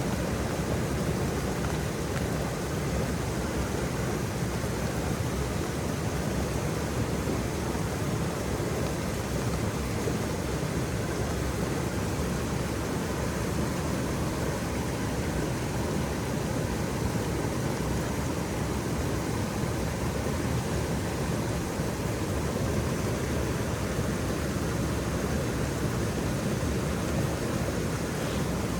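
Waterfall: a steady rush of falling water with no change, its sound strongest in the low range.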